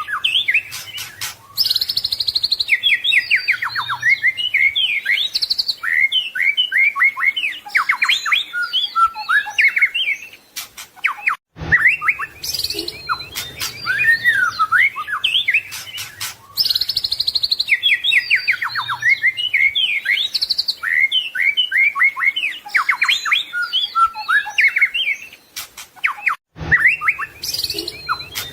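White-rumped shama singing a rich, varied song of whistles, rapid trills and chirps, packed with imitated phrases (isian). The same passage of about 15 seconds repeats, with a short break about 12 seconds in and again near the end, as a looped master song for training captive birds.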